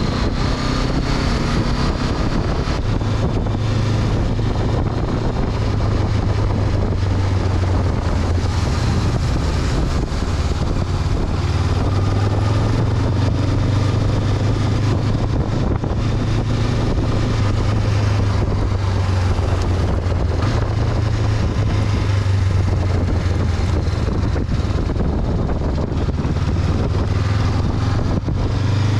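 Honda CB500X's parallel-twin engine running steadily as the motorcycle rides along, its pitch shifting only a little, with wind rushing over the camera microphone.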